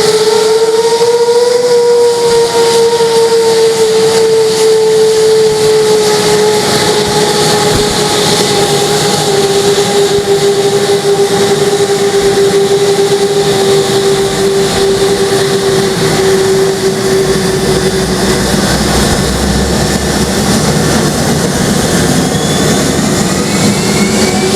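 F-15 fighter jet starting up: a steady high whine over hiss that drifts slowly down in pitch. A low rumble builds from about halfway, and near the end higher whines start rising as an engine spools up.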